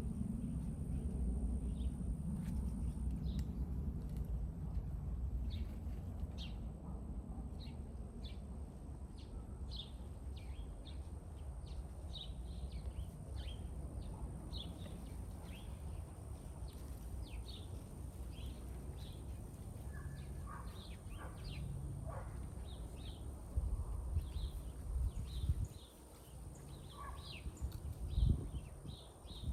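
Small birds chirping over and over in short high notes, over a steady low rumble, with a few dull knocks near the end.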